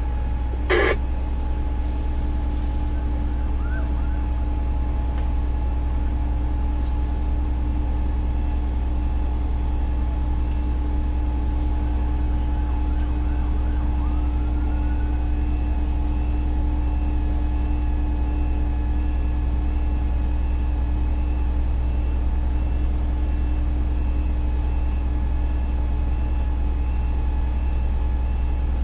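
Fire engine's diesel engine running at a steady idle, heard from inside the cab, with a low drone and a steady whine over it. There is a single short click about a second in.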